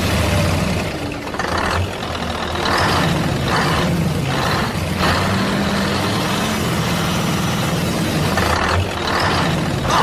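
A truck engine idling with a steady low hum, broken by short hisses of air that repeat every second or so.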